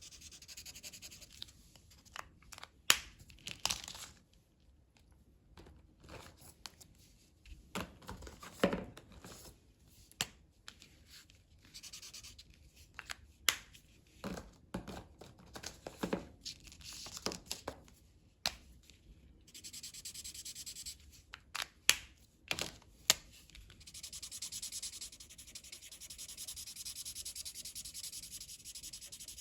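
Colouring strokes scratching and rubbing on paper, with repeated stretches of back-and-forth shading. Scattered sharp clicks and knocks come between them, from the drawing tools being picked up and set down on the table.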